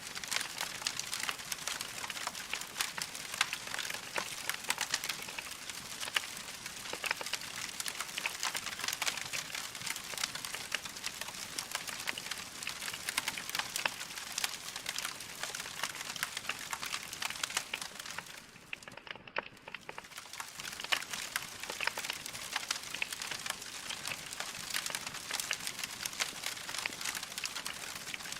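Log fire crackling: a dense, steady patter of small pops and hiss, dipping briefly quieter about two-thirds of the way through.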